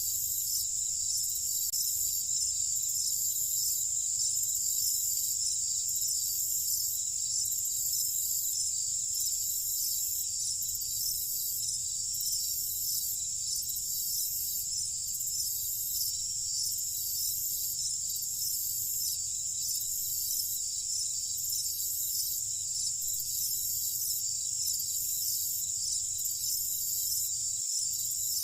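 A chorus of crickets trilling steadily at a high pitch, with a pulsing rise and fall, over a faint low rumble.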